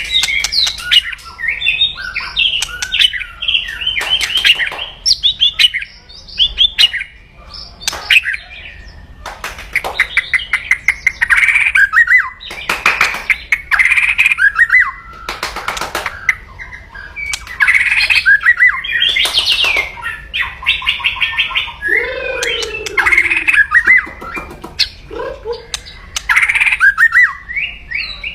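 White-rumped shama (murai batu) giving loud, aggressive kretekan calls: fast rattling runs of clicks mixed with short whistled phrases, with no pause.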